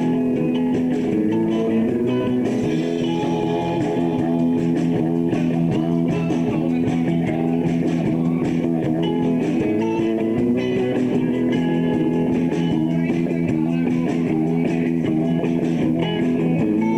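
Live rock band playing an instrumental stretch between sung lines: guitars over bass guitar and drums, running steadily.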